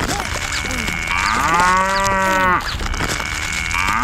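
A cow mooing: one long moo about a second in, preceded by a thin high steady tone, with a second moo starting at the very end.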